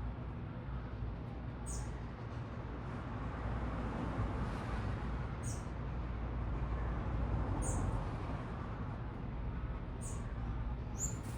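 Short, high chirps from small birds, five of them a second or two apart, over a steady low rumble of city traffic that swells a little in the middle.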